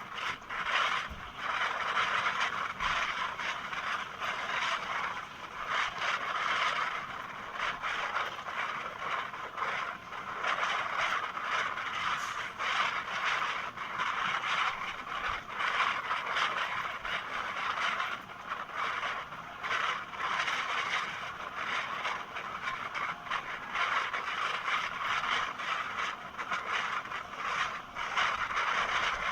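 Passenger train running at speed: steady wheel-on-rail noise with scraping and rattling that does not let up.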